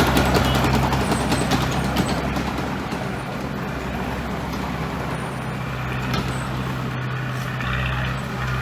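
Heavy diesel engine of construction machinery running steadily, a little louder in the first couple of seconds, with a few clicks and knocks over it.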